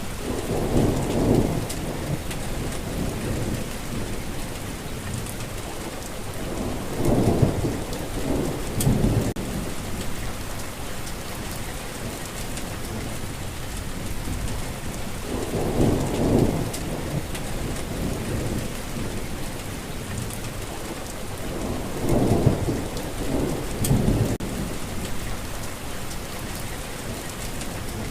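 Steady rainfall hissing, with low thunder rumbling four times, each roll lasting a second or two.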